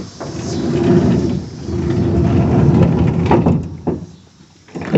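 A metal door or panel on a food truck being dragged along, a rumbling scrape with a faint squeal that lasts about three and a half seconds after a sharp knock at the start.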